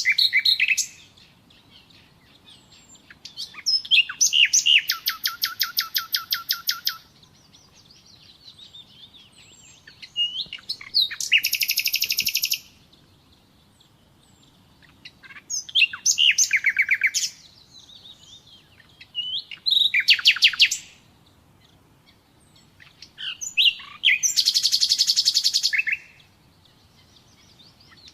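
Nightingale singing: about six separate phrases, each a few seconds of fast repeated notes and rattling trills, with pauses of two to three seconds between them.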